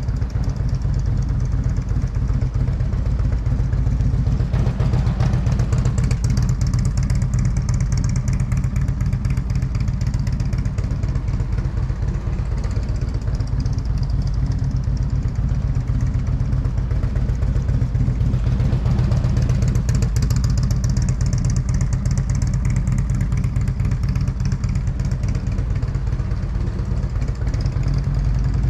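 Motorcycle engine running at low speed during slow U-turn practice, a steady low rumble that grows louder for a few seconds twice.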